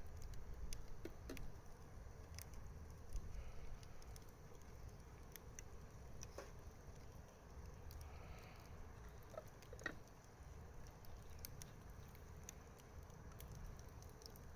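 Wood fire crackling: irregular sharp pops and ticks over a low, steady rumble.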